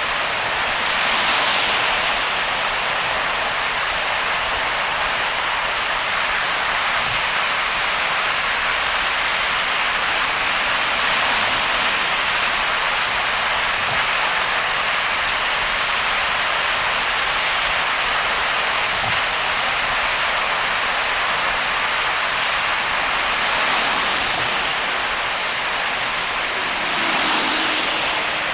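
Heavy rain and wet-road noise from a car driving through a downpour: a steady hiss of rain and tyre spray, swelling briefly a few times.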